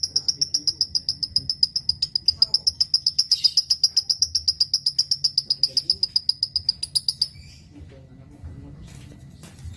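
Lovebird giving its long rapid trill (the 'ngekek'), a fast, even string of high chirps at about nine a second. It stops abruptly about seven seconds in; faint scattered chirps and clicks follow.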